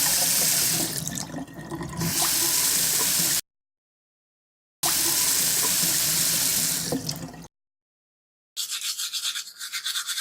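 A tap running into a sink, cut off abruptly, then running again and stopping. Near the end comes the quick back-and-forth scrubbing of teeth being brushed, several strokes a second.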